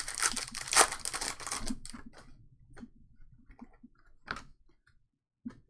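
Crinkling and tearing of a trading-card pack's wrapper being opened for about the first two seconds, then scattered light clicks and taps of the cards being handled.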